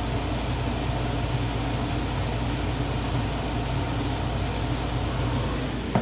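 Steady low machine hum with an even hiss, and a short knock right at the end.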